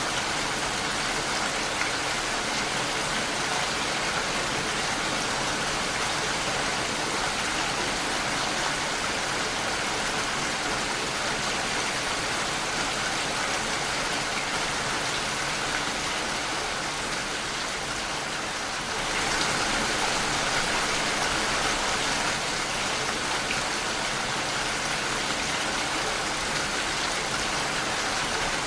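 Steady rain falling against a window pane, an even rushing hiss that dips briefly about two-thirds of the way through and comes back slightly louder.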